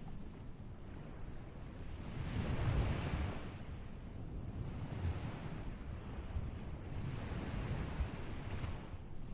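Ocean surf washing onto a beach, swelling once with a breaking wave about two to three seconds in and then settling to a steady wash. Low wind rumble on the microphone runs underneath.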